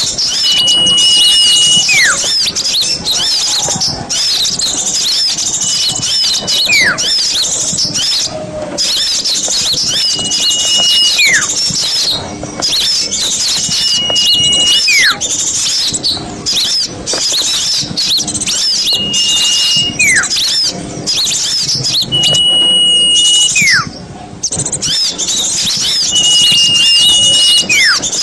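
Bird-lure recording of many small birds chattering in dense, rapid high chirps. About every four seconds a long steady whistle sounds and ends in a quick downward slide, seven times in all.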